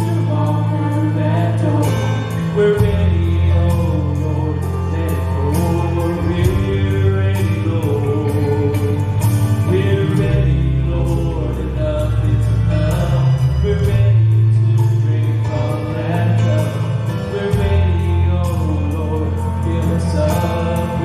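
Gospel group singing in harmony over instrumental accompaniment, with a steady bass line and a regular ticking beat.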